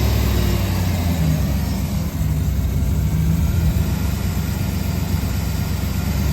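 2010 Chevrolet Silverado LTZ pickup's V8 engine idling steadily.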